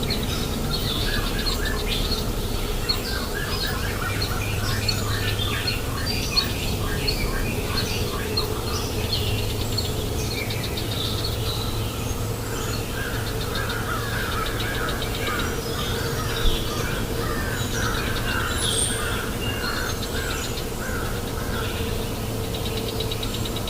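Several birds calling and chirping, many in quick runs of short repeated notes, over the steady rush of a flowing river.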